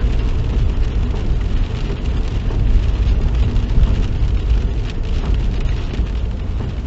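Steady low rumble of a car on the move, heard from inside the cabin, with rain hitting the roof and windscreen in scattered small ticks.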